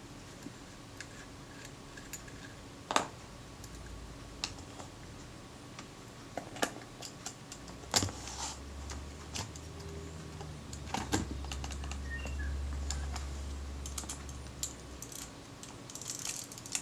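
Scattered light clicks and taps of small metal camera parts being handled as a Synchro-Compur shutter is fitted into a Kodak Retina IIIc body, with sharper clicks at irregular intervals and a cluster of them near the end.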